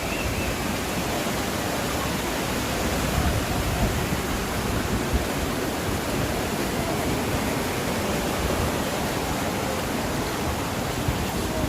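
Steady rushing of fast-flowing water from a mountain stream or waterfall.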